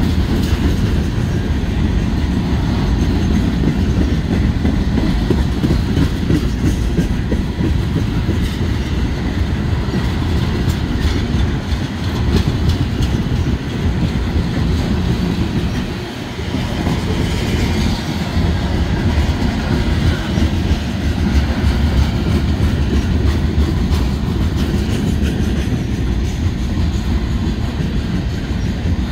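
Freight train's cars rolling past: tank cars, covered hoppers and centerbeam lumber flatcars, a steady low rumble of steel wheels on rail with clicks from the wheels, easing briefly about halfway through.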